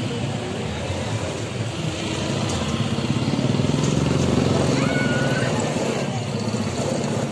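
A motor engine running steadily with an even pulsing beat, a little louder around the middle. A brief high chirp about five seconds in.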